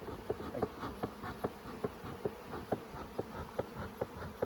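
Honeybees buzzing around an open hive, with short, louder buzzes coming about twice a second over a steady hum.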